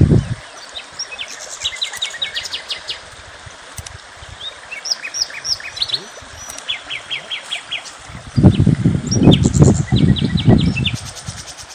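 Small birds chirping and singing in short, rapid trills over a steady background hiss. Loud low rumbling bursts come right at the start and again from about eight to eleven seconds in.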